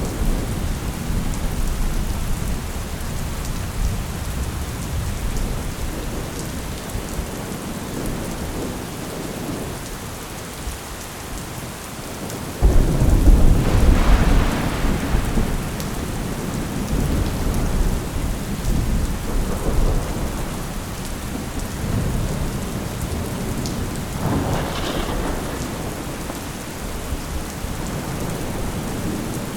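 Thunderstorm: steady rain with rolling thunder. About halfway through a sudden loud thunderclap breaks in and rumbles on for a few seconds, and a fainter rumble swells near the end.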